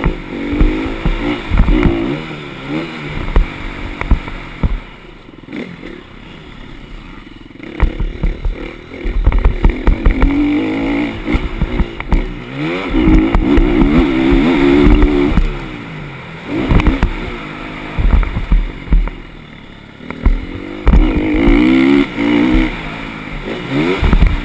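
Motocross bike engine revving hard in several bursts, its pitch climbing and dropping as the throttle is worked, easing off between bursts, with frequent knocks and rumble.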